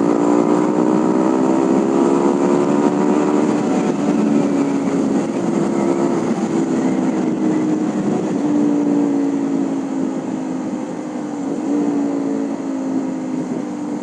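Honda CB150R's single-cylinder engine running hard at speed, its pitch climbing slowly, then easing off and holding steady with the throttle. It is heard over a rushing haze of wind and road noise.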